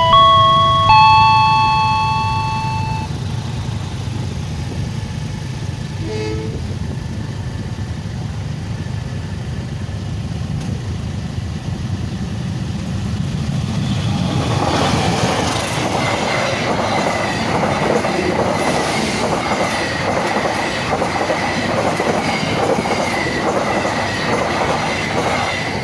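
A train passing over a level crossing, its wheels clattering over the rail joints, starting a little past halfway and carrying on to the end. Before it there is a steady low rumble, and a few ringing chime notes fade out right at the start.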